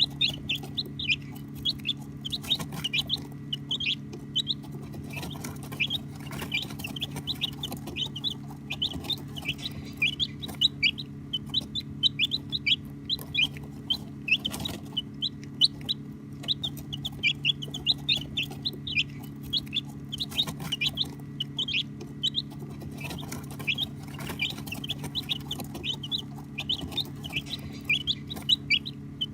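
A group of baby chicks peeping continuously: many short, high chirps overlapping several times a second, over a steady low hum.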